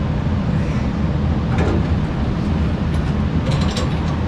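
Steady low mechanical rumble, with a quick cluster of light metallic clicks about three and a half seconds in, typical of gas pipe fittings being handled.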